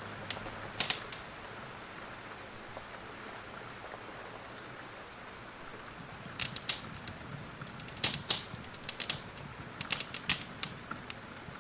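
Steady rain hiss with a wood fire crackling: scattered sharp pops, sparse at first and coming in quick clusters in the second half.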